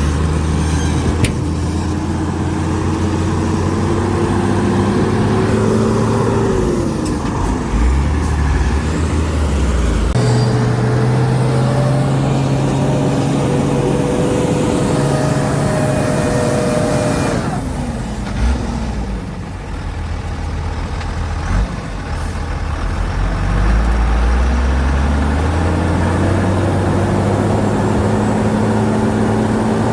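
Shantui DH17C2 bulldozer's diesel engine working under load. Its pitch climbs over the first several seconds, drops, then holds higher. It eases off and goes quieter for a few seconds past the middle, then revs up again.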